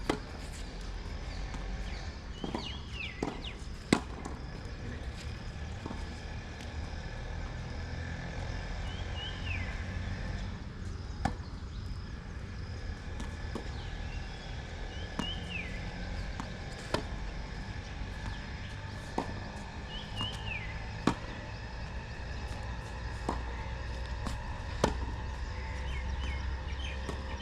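Tennis balls being struck and bouncing on a court: sharp single knocks every few seconds, irregularly spaced. A steady low rumble runs underneath.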